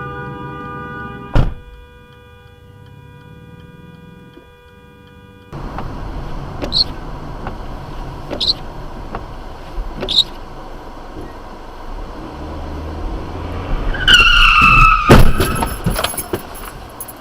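Car tyres screeching in a skid, the screech falling in pitch, then a loud crash impact near the end. Earlier, a sharp knock sounds over a steady held tone, followed by road noise with three short high chirps.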